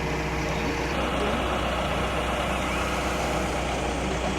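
Heavy vehicle engine idling steadily, an even, unbroken hum.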